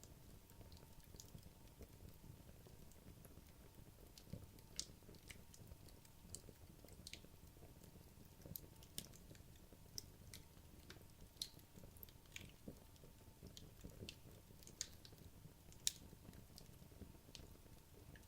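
Wood logs burning in a fireplace: faint crackling with irregular small pops over a low rumble of the flames, one sharper pop near the end.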